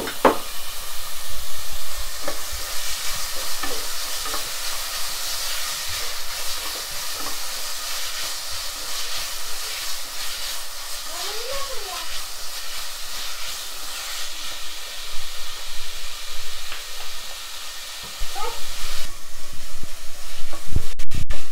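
Mixed vegetables and onions sizzling as they fry in oil in a pan, stirred and scraped around with a wooden spatula.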